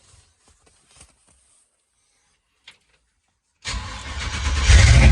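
Faint clicks, then about three and a half seconds in, a Chevy Nova's swapped-in aluminum 6.0-litre LS V8 cranks and fires, quickly rising to a loud, steady run.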